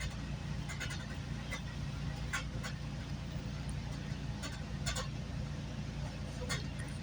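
Steady low rumble of a moving GO Transit passenger train, heard from inside the coach, with scattered light clicks and rattles.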